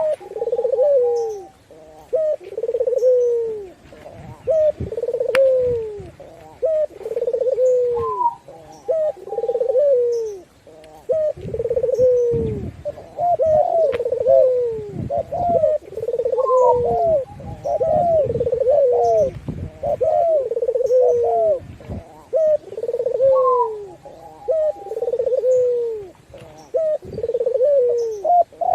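Several doves cooing over and over, each coo a low note that falls away, about one to two seconds apart. Shorter, higher coos overlap them, thickest through the middle. Faint high chirps sound now and then.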